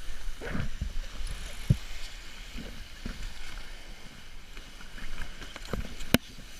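Thompson T750 sailboat under way: a steady rush of water and wind, with several low thumps and a sharp knock about six seconds in.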